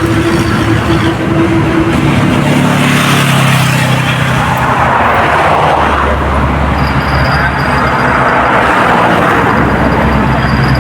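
Road traffic passing close by: vehicle engines and tyre noise, continuous and loud, with engine pitch shifting as vehicles go past.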